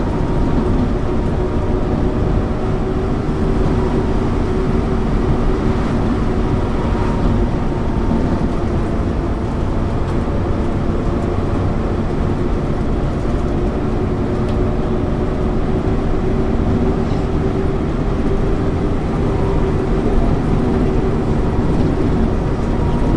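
Interior sound of a 1999 MAN ÜL 353 intercity bus cruising at a steady speed: an even engine drone with a few fixed humming tones over the rumble of the road.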